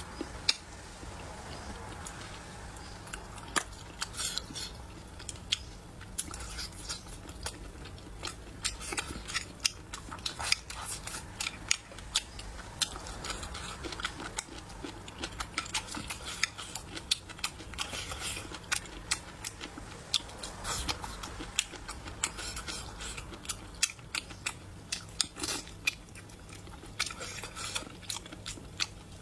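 Close-miked chewing and biting of braised food such as pork intestines, with many irregular sharp mouth smacks and chopsticks clicking against the bowl.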